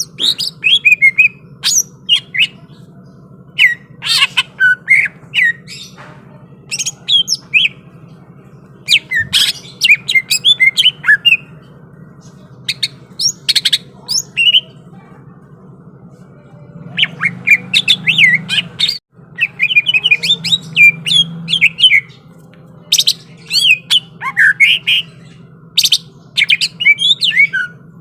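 Green leafbird (cucak ijo) singing loudly in short, fast bursts of sharp chirps and whistles, repeated every second or two, over a steady low hum.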